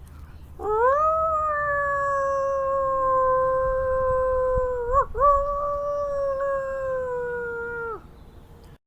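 One long animal howl that rises at the start, then holds and slowly sinks in pitch, with a short waver about five seconds in. It stops abruptly near the end.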